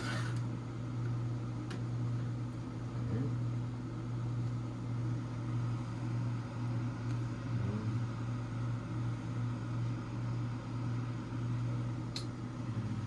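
A steady low mechanical hum with a couple of faint clicks.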